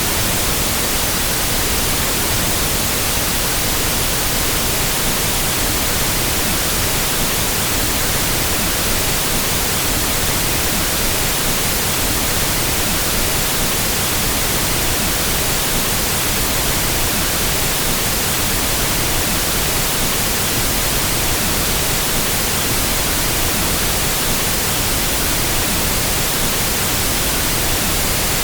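Pink noise test signal for equalizing sound equipment: a steady, even hiss across the whole range, without any change.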